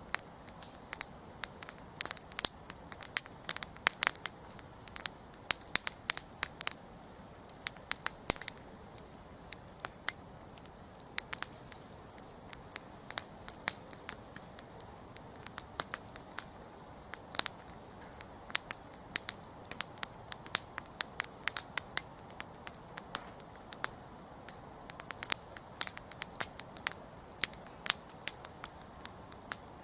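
Wood campfire crackling: sharp, irregular pops and snaps, several a second at times, over a soft steady hiss of burning.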